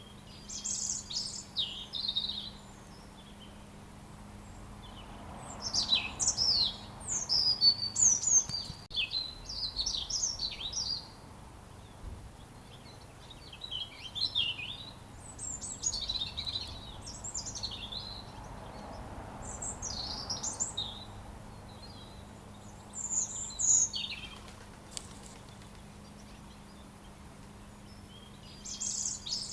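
A robin singing: phrases of quick, high, rising and falling notes, each lasting one to a few seconds, with short pauses between them.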